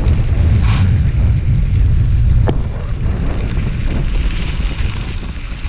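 Wind buffeting the microphone while cycling at speed: a loud, gusty low rumble, with one sharp click about two and a half seconds in.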